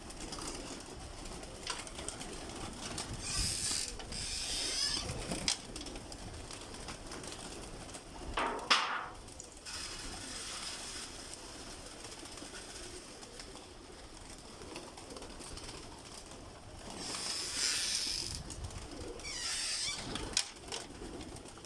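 Domestic pigeons cooing in a loft, with intermittent rustling, clicks and rattles, and one sharp knock a little before the middle.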